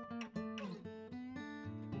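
Background music: an acoustic guitar playing a run of plucked, ringing notes.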